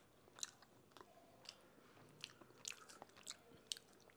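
A person chewing a bite of freshly fried, masala-coated fish: faint, irregular crunchy clicks from the mouth.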